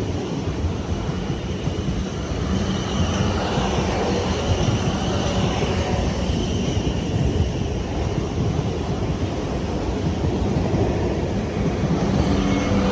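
Train running past at the trackside, a steady loud rumble with a faint held hum over it.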